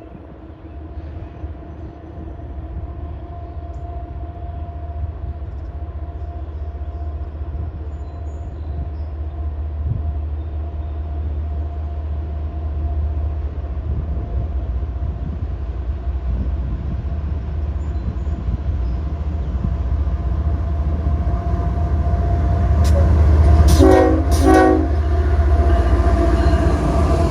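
CSX freight train's diesel locomotives approaching, their low rumble growing steadily louder. Near the end the train's horn sounds two short blasts in quick succession.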